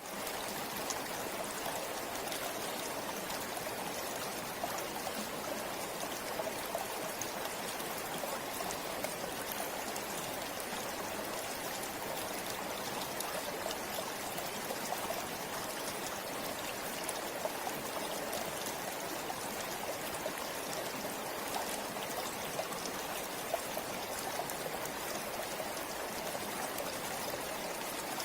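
River water flowing in a steady, constant rush with small splashy ticks scattered through it.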